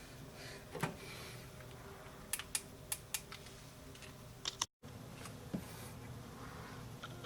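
Scattered small hard clicks and taps from handling, a quick run of about five near the middle, over a low steady hum, with the sound cutting out for a split second just after the middle.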